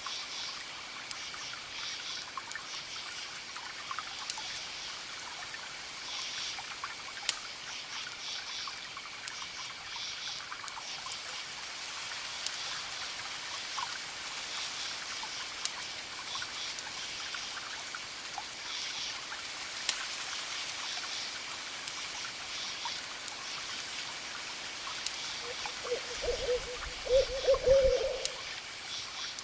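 Campfire crackling in scattered sharp pops over a steady wash of distant waves, with crickets chirping in pulsed groups throughout. Near the end a low hooting call, the loudest sound here, wavers for about two seconds.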